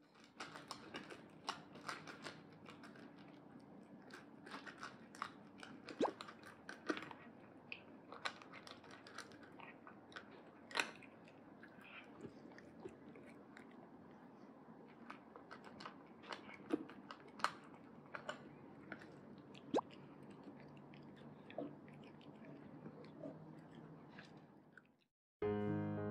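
Cat chewing dry kibble from a stainless steel bowl: irregular crunches with occasional sharper clicks. It stops abruptly near the end.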